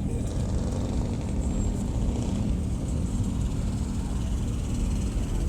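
A car engine running steadily: a continuous low rumble with a steady hum.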